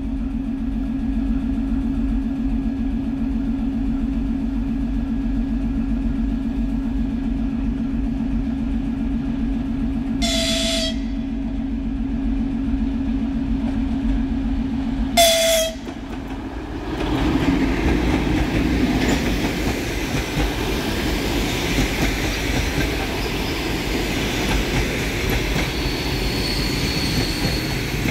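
EP2K electric locomotive's horn, two short blasts about five seconds apart, over a steady low hum. Then the locomotive and its passenger coaches pass close by: loud rolling wheel noise with clickety-clack from the rail joints.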